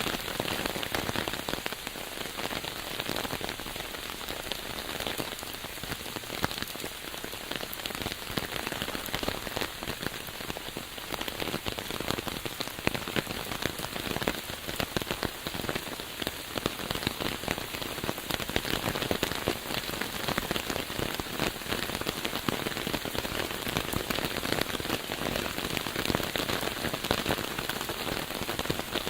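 Steady rain falling, a dense even hiss flecked with many separate drop hits.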